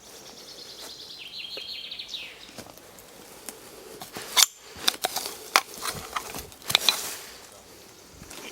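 A songbird sings one short trilled phrase that ends in a falling flourish. Then, about two seconds later, comes a run of sharp clicks and knocks, the loudest sounds.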